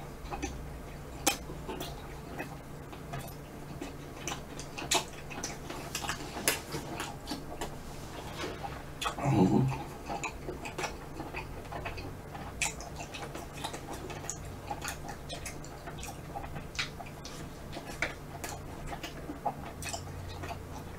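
Close-miked mouth sounds of chewing chewy rice-cake ice cream with vanilla ice cream: irregular wet clicks and smacks. A brief low hum from the eater comes about nine seconds in.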